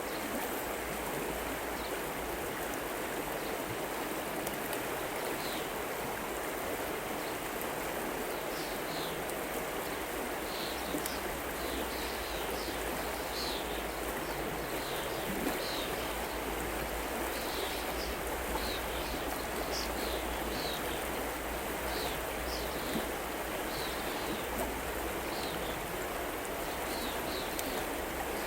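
River water flowing steadily, a constant rushing. Short, high chirps repeat over it from about five seconds in.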